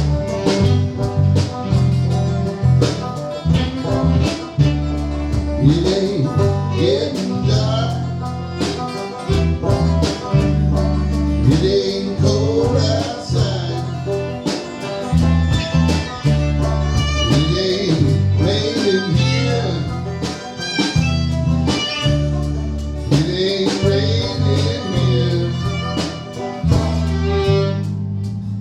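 Bluegrass band playing: guitar and fiddle over a steady low bass line, with the sound thinning out near the end.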